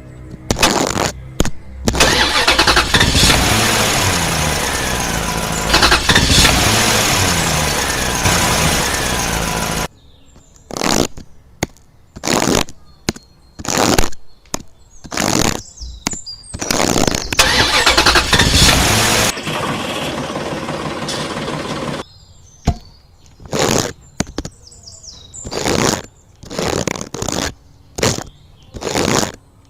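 Small engine of a miniature tractor running, its pitch rising and falling as it revs, for about eight seconds. It is then heard in many short separate bursts, with a couple of longer stretches near the middle.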